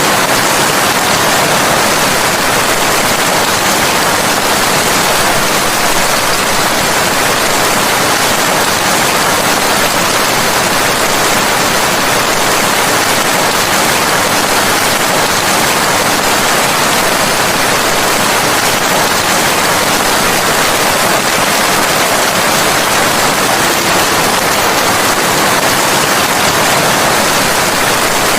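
Steady, loud rain falling, an even hiss with no separate drops or thunder standing out.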